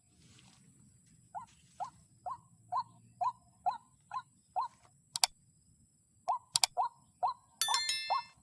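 White-breasted waterhen (ruak-ruak) calls, short croaking notes repeated about twice a second, used as the lure for the trap. The calls pause briefly in the middle, where there are two sharp clicks, and then resume.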